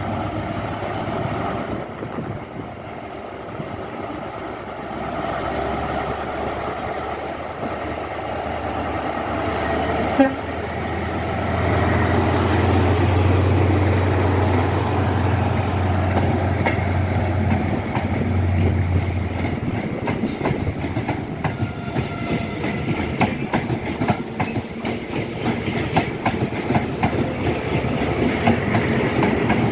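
High Speed Train (Class 43 diesel power car) passing: a deep engine drone that grows louder and then fades, with one brief sharp noise about ten seconds in. In the last third the wheels clatter rapidly over the rail joints.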